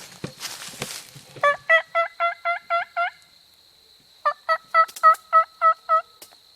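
Turkey yelps in two runs of about seven evenly spaced notes each, with a pause of about a second between the runs.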